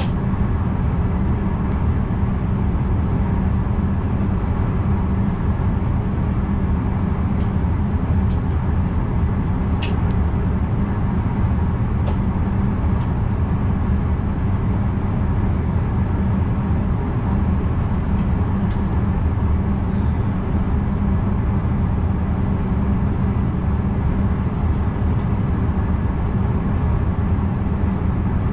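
Running noise of an NS VIRM double-deck electric train, heard from the driver's cab: a steady low rumble with a few faint clicks.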